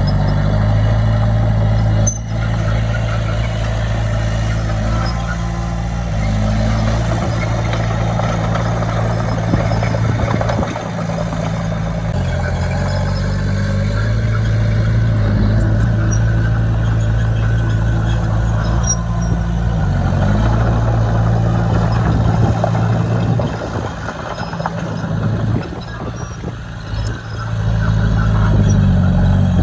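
Heavy-equipment diesel engine running under load; its pitch drops and rises in steps every few seconds as the engine speed changes. It runs quieter and more unevenly for a few seconds near the end.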